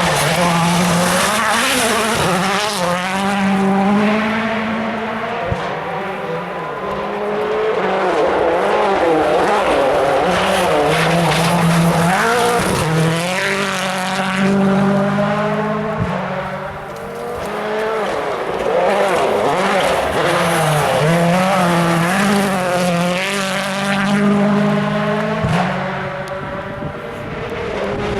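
Rally car engine revving hard, its pitch climbing and dropping again and again through gear changes and lifts, with tyre noise, fading down briefly a few times.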